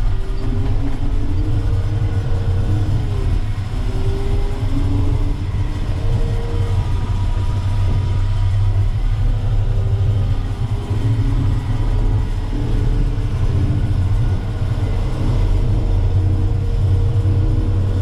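Terex FD4000 front-discharge concrete mixer truck's diesel engine running under way, a steady deep rumble with its pitch rising and falling a few times as it pulls away through the gears.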